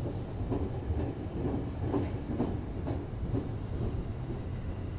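JR West 225-series electric train moving past along the platform: a low rumble of wheels on rail, with the wheels clicking over rail joints about twice a second.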